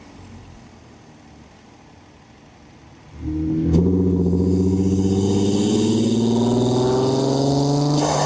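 Tuned Infiniti Q60's engine, fitted with upgraded turbos, running quietly for about three seconds, then accelerating under throttle with a steadily rising pitch. A single sharp click comes just after the pull begins.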